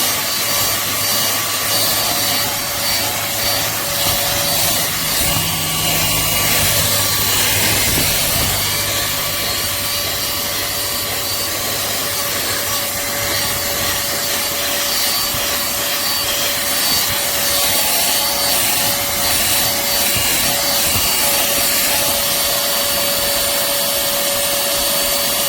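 Cordless handheld vacuum running steadily, a high motor whine over rushing air, with its nozzle scraping over car carpet. At the very end the whine starts to drop as the motor is switched off and spins down.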